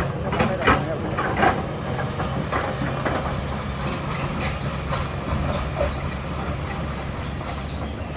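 Diesel engine of a heavy earthmoving machine running steadily with a low rumble, with several sharp knocks in the first second and a half.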